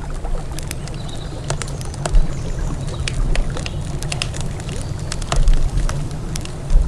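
Campfire crackling, with many sharp pops and snaps at irregular intervals over a steady low rumble.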